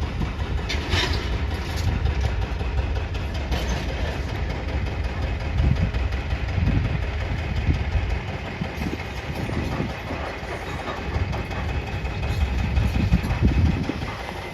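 A heavy demolition machine's diesel engine running and working up and down under load, with a few sharp knocks near the start as it strikes a large piece of metal.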